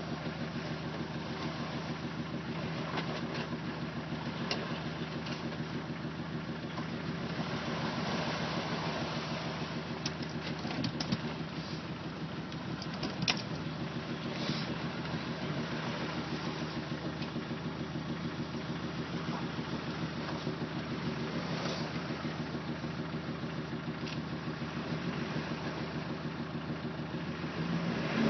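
Land Rover Discovery diesel engine idling steadily, with a few short clicks or knocks near the middle.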